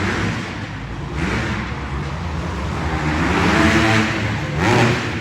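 Dirt bike engines revving and running on the track, their pitch rising and falling as the riders open and close the throttle, with a sharp rev near the end.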